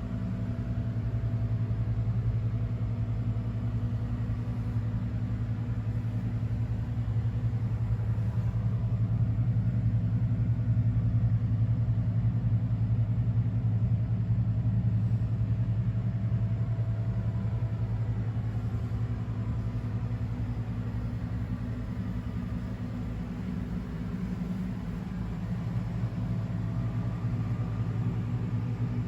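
Honda CX650 Turbo's turbocharged V-twin engine idling steadily with a low, even rumble, a little louder in the middle.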